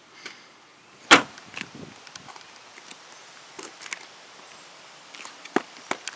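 A single loud, sharp knock about a second in, followed by scattered light clicks and taps, with a few sharper clicks near the end.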